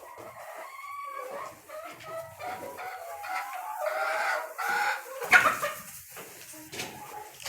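Chickens clucking and calling, many short overlapping calls. A sudden loud sound stands out about five seconds in.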